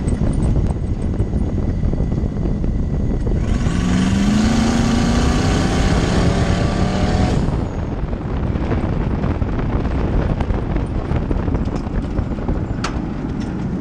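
Twin-turbocharged Rover 3.9 V8 in an off-road buggy, running under way amid road and wind noise. From about three and a half seconds in it revs up hard, the engine note climbing for about four seconds with a hiss over the top, then the throttle closes suddenly and it drops back to a steady run.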